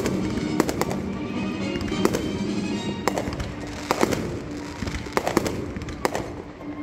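Aerial fireworks bursting in quick, uneven succession, a dozen or so sharp bangs, over music playing.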